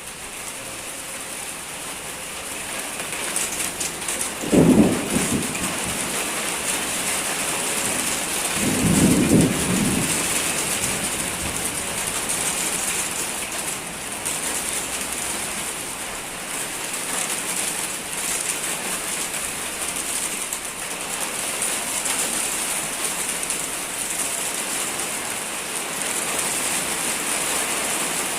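Heavy rain pouring steadily during a thunderstorm, growing louder over the first few seconds. Thunder sounds twice: a sudden crack about five seconds in, then a longer rumble about four seconds later.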